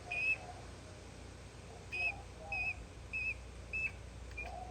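Rubber primer purge bulb on a Stihl BR600 backpack blower's carburetor being pumped by hand. It gives short high squeaks, one early, then after a pause five more about every half second. The bulb only half-fills and never purges all the air out, a sign of a problem inside the carburetor.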